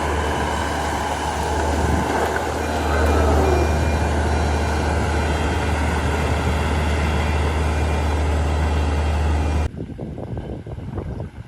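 Heavy diesel earth-moving machinery running steadily: a loud, deep drone with dense mechanical noise. Near the end it drops away abruptly to a fainter, uneven rumble.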